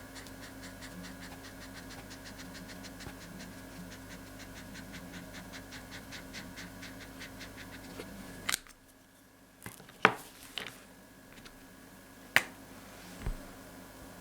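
Rhythmic scribbling strokes on paper, about five a second, as a drawing is coloured in. After about eight seconds the strokes stop, and a few sharp clicks and taps follow.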